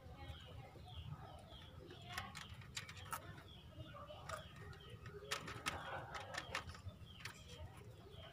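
Birds chirping and cooing in the background, faint, with sharp clicks now and then, the strongest bunched together about five seconds in.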